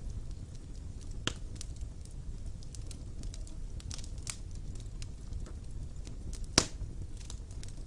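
Wood fire burning in a fireplace: a steady low rumble of flame with scattered sharp crackles and pops, the loudest pop about six and a half seconds in.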